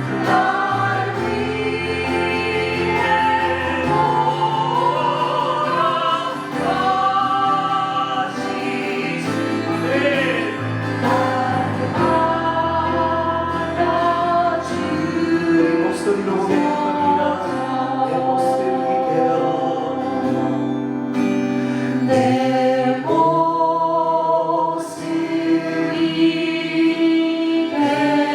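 Choir singing a slow hymn with held notes over a sustained low accompaniment.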